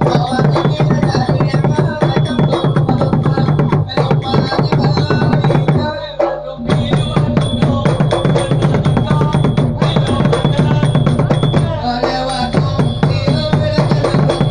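Southern Thai Nora ensemble music: fast, dense drumming with steady held tones underneath, breaking off briefly about six seconds in before resuming.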